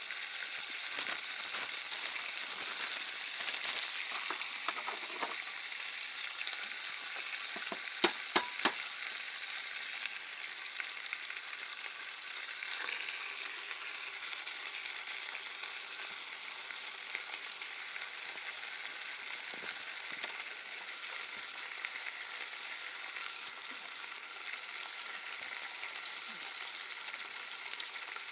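Sliced meat frying with a steady sizzle in a small aluminium tray pan on a camping gas stove. About eight seconds in come three sharp taps, from an egg being cracked on the pan's edge, and an egg is then frying in the pan alongside the meat.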